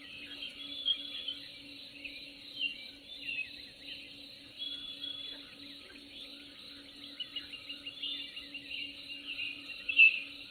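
Birds chirping and trilling, many short calls that grow louder near the end, over a faint steady low hum.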